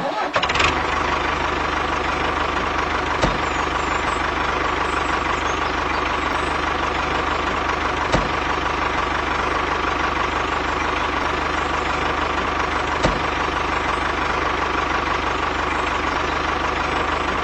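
A tractor engine idling steadily at an even pitch, with a faint click about every five seconds.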